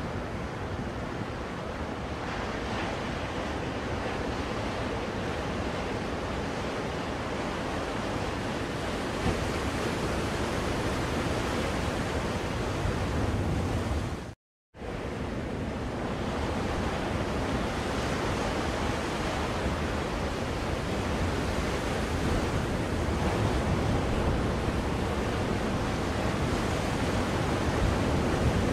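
Ocean waves washing on a shore, played as a steady white-noise track, rising and falling slowly. About halfway through the sound cuts out for a split second and resumes, like a loop point in the recording.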